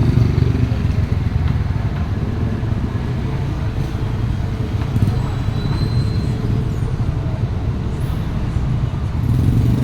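Vehicle engine running with road traffic noise: a steady low rumble that holds level throughout.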